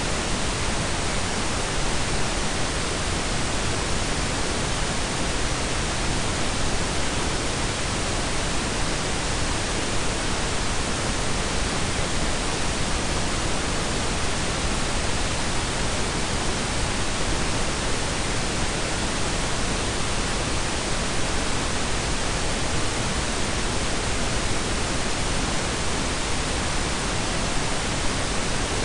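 Steady blend of pink and brown noise: an even, unbroken hiss with a deep rumbling undertone, unchanging throughout.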